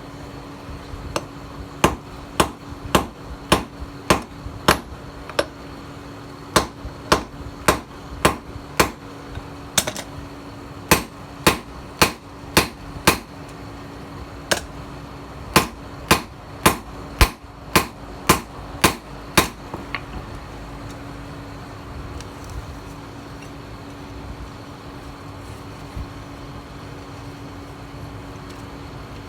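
Hand hammer striking tiller-blade steel on an anvil while forging a knife. Sharp, ringing blows come in runs of about two a second, with short pauses, and stop about two-thirds of the way through. A steady low hum runs underneath.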